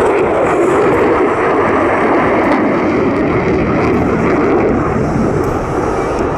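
F-22 Raptor's twin Pratt & Whitney F119 turbofan engines running at high power as the fighter flies a tight turn: loud, steady jet noise.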